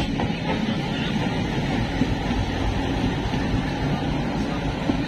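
Steady rumble and clatter of trains in motion, heard through an open train window as a diesel locomotive passes close alongside.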